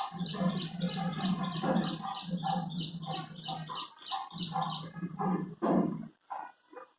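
Birds calling: a rapid, even run of short high chirps, about three or four a second, over lower notes. The chirps stop about five seconds in, and the lower calls go on in short broken bursts.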